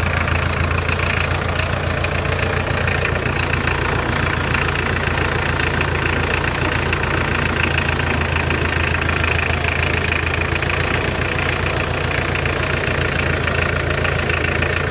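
Old International Harvester Farmall diesel tractor engine running steadily at low revs while the tractor drives slowly, heard from the driver's seat.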